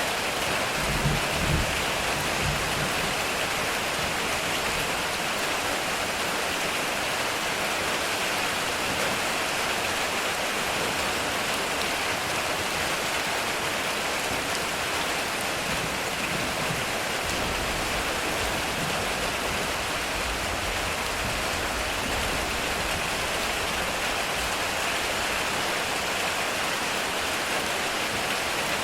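Heavy rain falling steadily on a metal roof, a dense even hiss, with faint low thunder rumbles about a second in and again past the middle.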